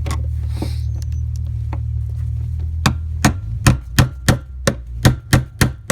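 Hammer tapping the fuel pump lock ring round to lock it down on the tank: a run of sharp strikes, about three a second, starting just under three seconds in. A steady low hum is heard before the tapping starts and stops soon after it begins.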